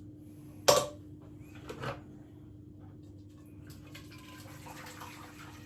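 Metal pan or utensil knocked down with a sharp clatter about a second in, a lighter clatter a second later, then water running from a kitchen tap for a couple of seconds near the end.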